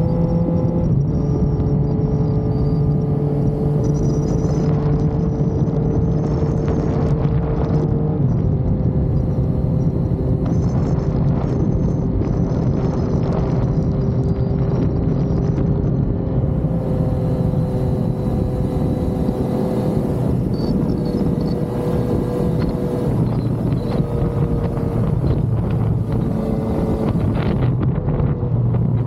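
Yamaha XSR900's inline three-cylinder engine running steadily under way, heard from on the bike, its note stepping down and settling at a few points as the throttle and gears change, over a rush of wind and road noise.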